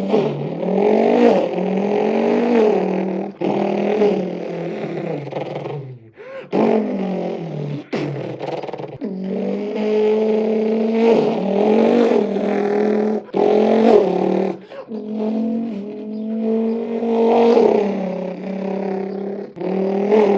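A man imitating the V8 of a Mercedes-Benz C63 AMG W204 with his mouth: a steady buzzing drone with repeated rising and falling revs, broken by a few short pauses.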